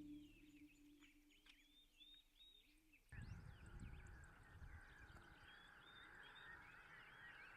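Faint birdsong: many short chirps and whistles, with a steady hiss joining suddenly about three seconds in.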